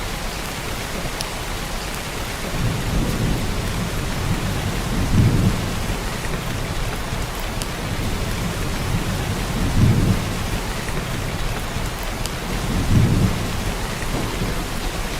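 Heavy rain pouring down in a steady hiss, with low rumbles of thunder swelling up three times, the loudest near the middle and near the end.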